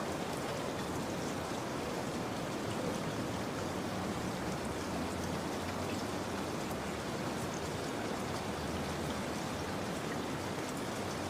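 Steady rain falling, an even hiss with a fine patter of individual drops.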